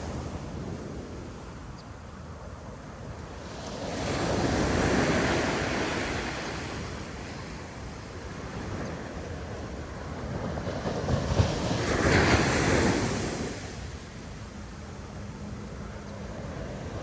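Ocean waves breaking on a sandy beach: two waves crash and wash up, about four seconds in and again about twelve seconds in, over a steady surf hiss, with some wind on the microphone.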